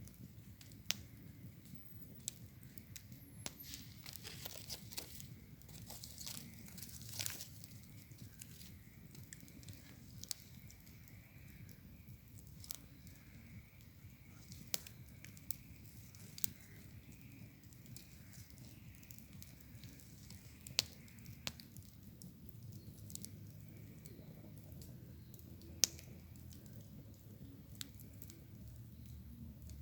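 Wood fire crackling, with scattered sharp pops and a denser run of crackling a few seconds in.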